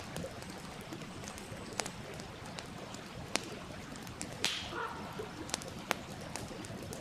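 Wood campfire crackling with scattered sharp pops over the steady rush of a stream. One louder crackle with a short hiss comes about four and a half seconds in.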